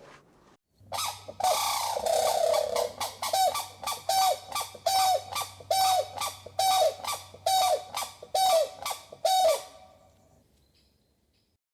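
A bird calling over and over: about ten short pitched calls at an even pace, a little faster than one a second, each dropping in pitch at its end. A faint low hum runs beneath.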